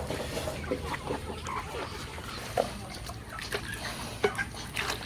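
Farm animal noises, with short sharp knocks about two and a half and four seconds in.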